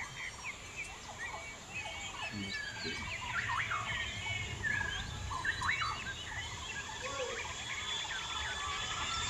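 Many birds chirping and calling over one another in short, scattered notes and quick upward sweeps, over a low background rumble.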